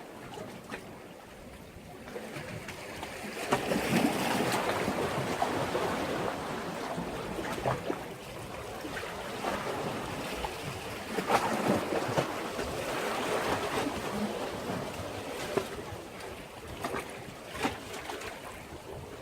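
Sea waves washing against a breakwater, swelling in surges a few seconds apart and falling back, with short sharp splashes among them.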